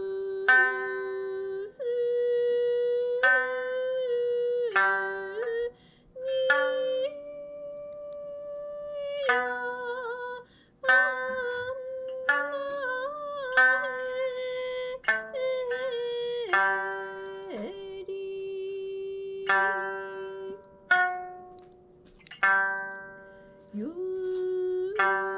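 Sanshin and ocarina playing a slow tune together: the ocarina holds long, smooth melody notes while plucked sanshin notes ring out and fade every second or two.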